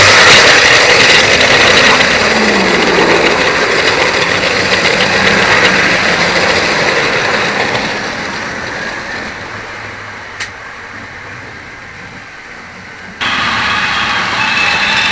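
Model train running along the track, a steady mechanical running noise with a motor tone that drops in pitch a couple of seconds in. The noise fades away over several seconds, with a single click partway through, then comes back loud suddenly near the end.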